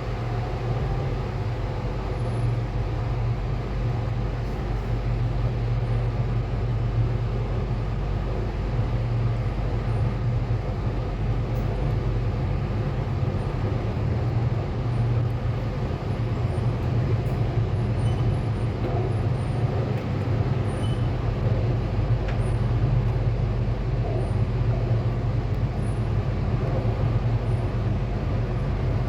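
Inside a Sydney Metro Alstom Metropolis driverless train running between stations: a steady rumble and hum from the motors and the wheels on the track, growing a little louder in the first few seconds as the train picks up speed.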